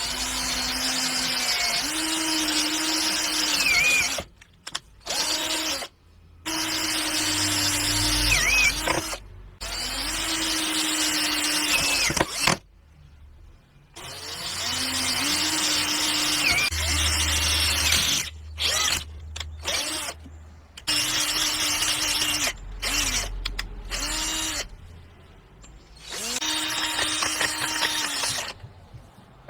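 Electric power tool motor running in about ten separate stretches of up to a few seconds each, its steady hum rising briefly in pitch as each stretch starts and cutting off abruptly between them.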